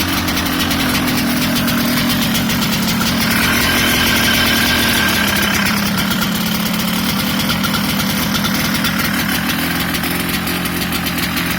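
KTM GS 250 two-stroke single-cylinder engine running at idle just after a cold start, the note swelling slightly about three to five seconds in.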